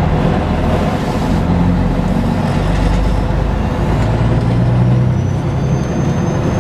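Semi-truck diesel engine running under load, heard from inside the cab, its pitch shifting up and down as it pulls through the gears. A faint high whine comes in about two-thirds of the way through.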